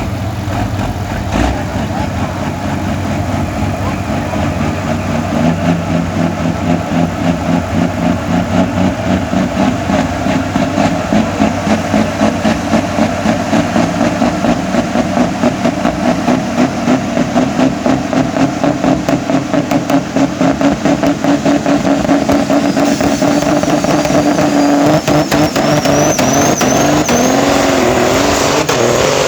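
Pulling truck's engine working hard under load as it drags the sled, its sound pulsing rhythmically. A high rising whistle comes in past the middle, and the engine pitch climbs near the end.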